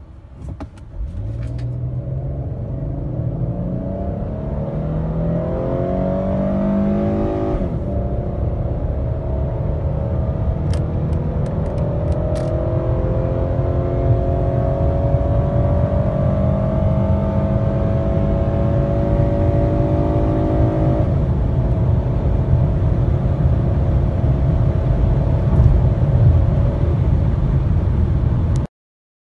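Chrysler 300C's 3.5-litre V6 accelerating hard from a standstill, heard from inside the cabin. The engine note rises steadily through the revs and drops sharply at two upshifts of the four-speed automatic, about seven seconds in and again about twenty-one seconds in, then climbs slowly until the sound cuts off near the end.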